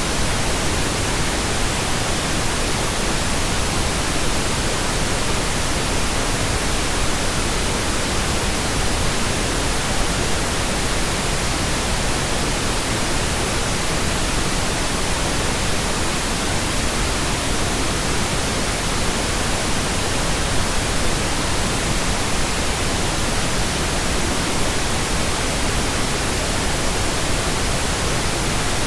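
Steady pink noise generated in Audacity: an even, unchanging hiss spread across all pitches.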